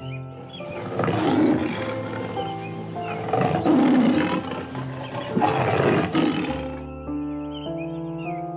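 Loud, rough animal calls, about three of them, over gentle background music.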